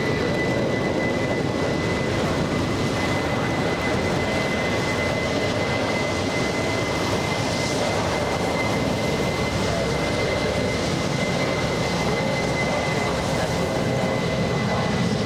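Jet airliner engines running, with a steady high whistle held over a broad engine rumble.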